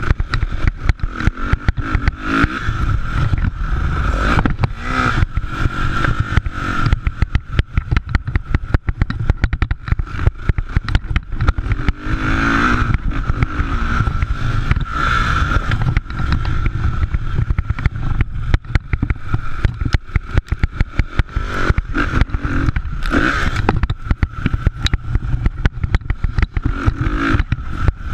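Motocross dirt bike engines running and revving on the track, swelling louder as bikes come through. Constant crackle and low rumble sit over the whole recording.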